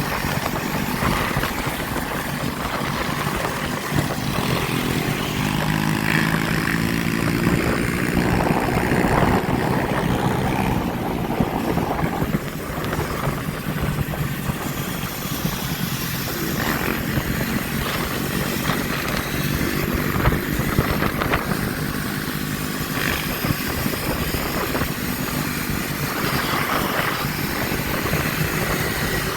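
Motorbike engines running, one revving up with a rising pitch a few seconds in, over a steady rushing noise.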